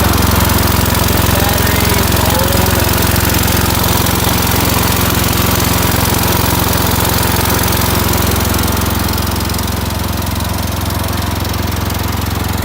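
Engine of a 2008 Boxer 530X mini skid steer running steadily, a little quieter near the end.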